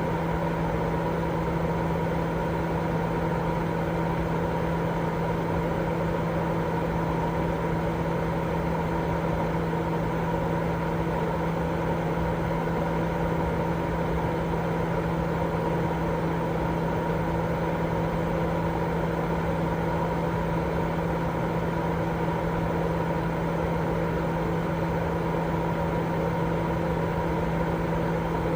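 Continuous white noise for baby sleep: a steady, unchanging hiss with a constant low hum and a few steady tones in it, like a running machine.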